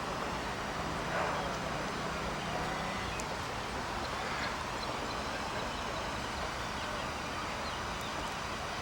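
Steady outdoor background noise with faint, indistinct distant voices, and a low hum that stops about three seconds in.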